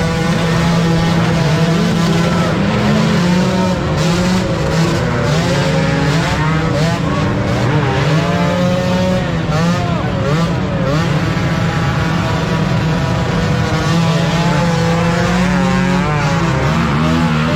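Several motocross bike engines revving at once, their pitches rising and falling as the riders work the throttle through the mud.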